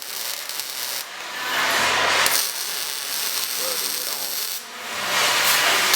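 A tool working on the exhaust: two long scraping, grinding passes, each about a second and a half, the first starting about a second in and the second near the end.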